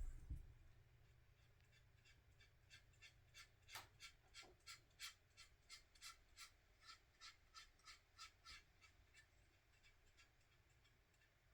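Faint, quick scratchy strokes of black oil pastel rubbed onto the plastic fuselage of a 1/48 scale model plane, about three a second for several seconds before they stop. A soft thump comes just after the start, over a low steady hum.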